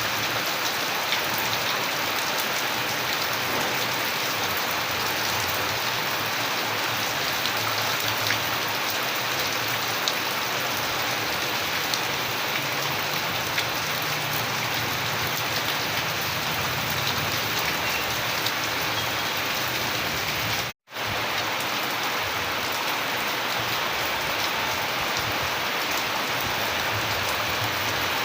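Steady rain falling, a dense even hiss with scattered sharper drop ticks. It cuts out completely for a fraction of a second about three quarters of the way through, then resumes unchanged.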